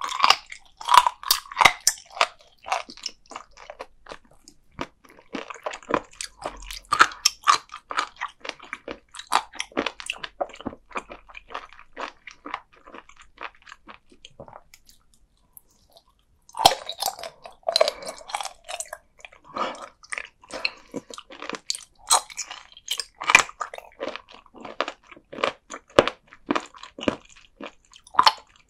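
Close-miked chewing of raw sea cucumber: rapid, crisp crunching and biting of the firm, cartilage-like flesh. It pauses for about three seconds near the middle, then the chewing starts again.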